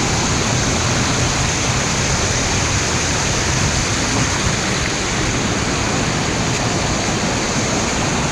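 Small waterfall's water rushing steadily, close to the microphone.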